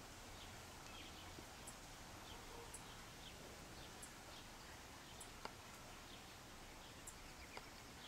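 Near silence with faint, high small-bird chips about once a second and a few softer chirps between them. A single sharp click comes about five and a half seconds in.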